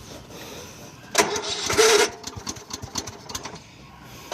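Electric starter cranking a Troy-Bilt Super Bronco's 19 horsepower Kohler engine for about a second without it firing, the tank having been drained of fuel. Another crank starts right at the end.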